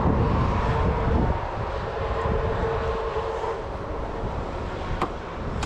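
A vehicle engine running, a steady low rumble with a hum that fades about three and a half seconds in; a single sharp click near the end.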